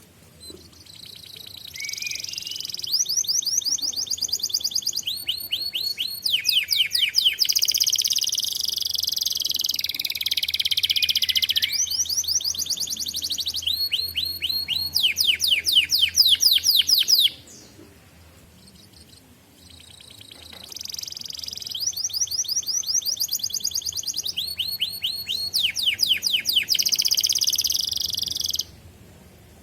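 Domestic canary singing in long, loud phrases of rapid repeated chirps and trills, switching between trill types every second or two. The song stops for about three seconds in the middle, then resumes for a second long bout.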